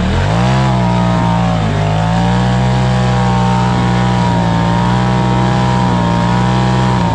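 Off-road vehicle engine revved up and held at high, nearly steady revs under load while climbing a rock obstacle, sagging briefly about one and a half seconds in.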